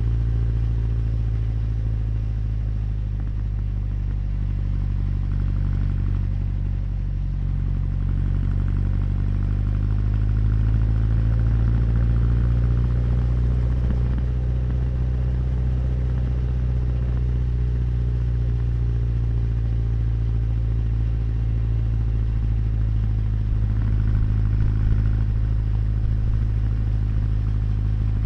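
Honda CB1100's air-cooled inline-four engine and exhaust running while riding at a steady cruise. The note eases off slightly a few seconds in, then picks up again at about ten seconds.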